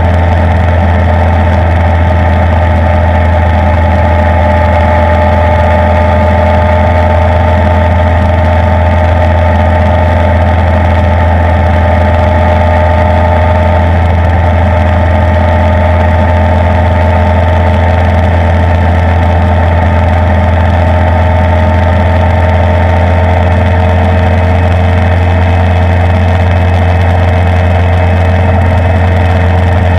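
Suzuki inline-four motorcycle engine running at a steady cruise, heard on board the moving bike: a loud, even drone whose pitch drifts only slightly.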